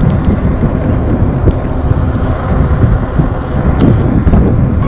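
Wind rumbling and buffeting on the microphone of a moving e-bike, a loud, uneven low roar.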